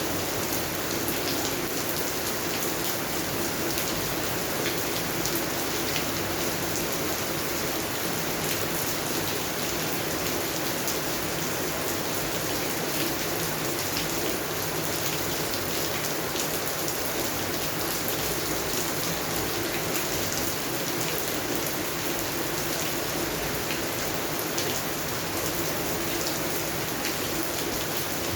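Steady rain falling on garden plants, a continuous even patter with many small drop ticks.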